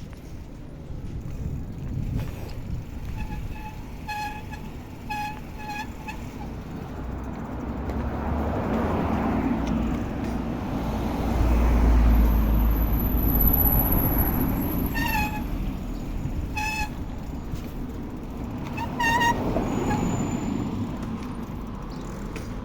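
Road traffic running past on a ride, with one vehicle passing loudly midway. Several short pitched toots sound, three close together early, then single ones toward the end.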